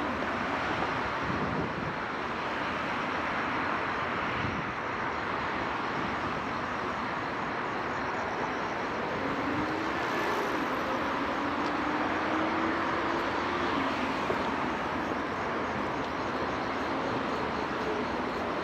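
Steady hiss of city traffic noise, with a faint rising whine about ten seconds in.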